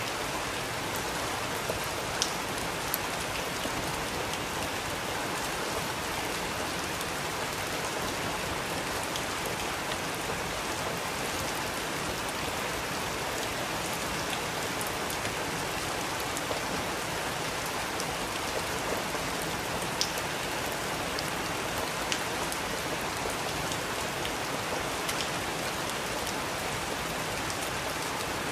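Steady rain falling, with the hiss of the downpour and scattered sharper drops tapping on a surface.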